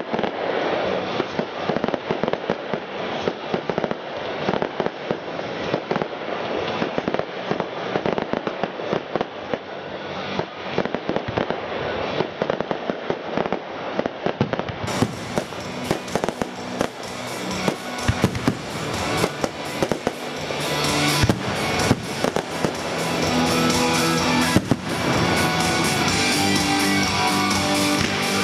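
Fireworks display: a dense run of shell bursts, bangs and crackling. About two-thirds of the way through, a music soundtrack comes up under the fireworks and grows louder.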